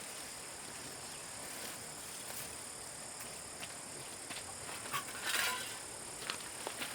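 Steady, high insect chirring with scattered light clicks, and a short noisy rustle about five seconds in.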